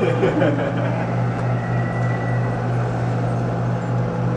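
A steady low hum under an even rushing noise, holding level throughout, with a faint thin tone in the middle.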